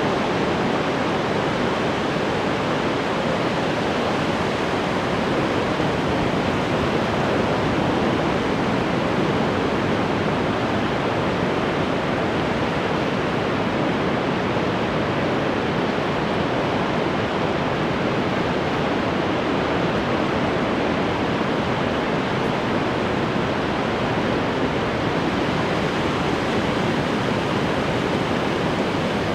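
Ocean waves breaking on the shore: a steady, unbroken wash of surf with no separate crashes standing out.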